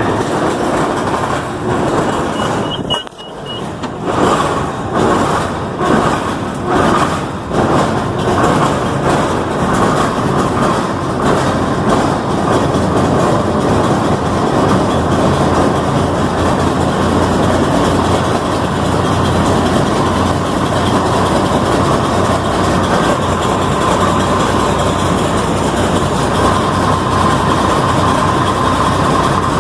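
Six-cylinder International Harvester engine cold-started with no preheat. There is a short beep about three seconds in; the engine then catches and fires unevenly for a few seconds and settles into a steady run by about nine seconds.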